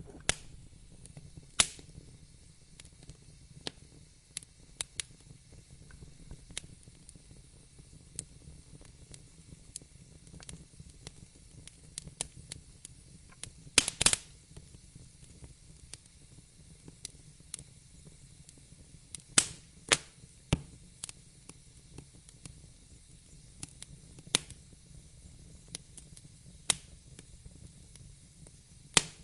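Fireplace fire crackling: irregular sharp pops and snaps over a faint low rumble, with a loud cluster of pops about halfway through.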